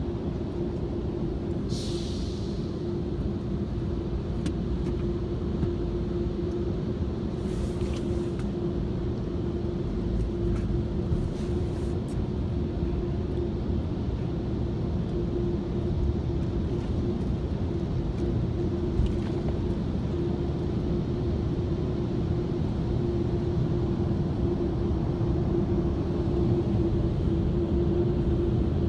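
Automatic car wash machinery running, heard from inside the car: a steady low rumble with a constant motor hum, and a few brief hisses about 2, 8 and 11 seconds in.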